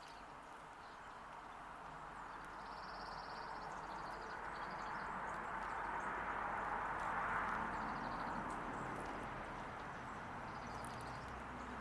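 A broad rushing noise swells slowly to a peak about seven seconds in, then fades. Over it come several brief, faint, high trills from small birds.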